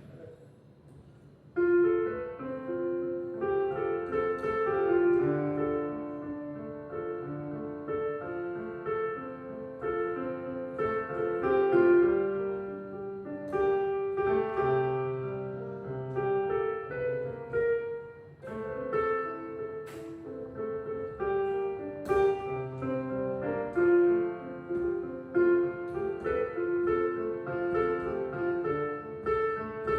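Street piano being played, a melody over steady chords; the playing starts about a second and a half in.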